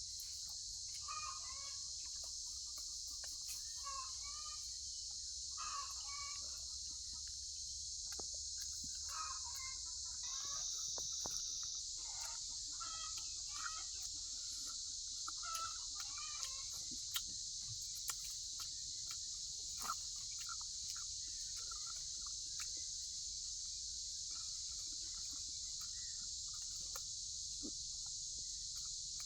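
Chickens clucking and calling over a steady high drone of insects, the calls thinning out after about ten seconds, with scattered light clicks in the second half.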